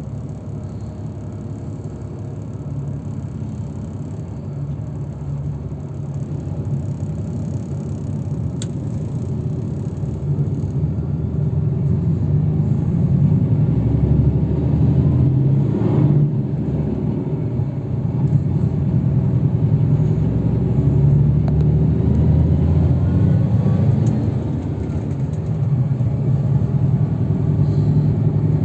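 Steady engine and road rumble of a moving road vehicle, heard from inside the cabin. It grows louder about ten seconds in, as the vehicle picks up speed, with a single knock a few seconds later.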